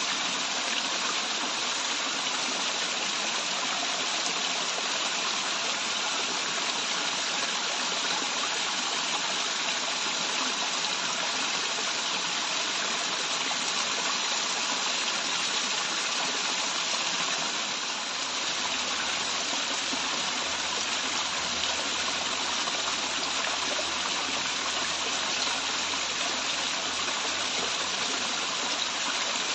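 Waterfall: running water pouring with a steady, even rush.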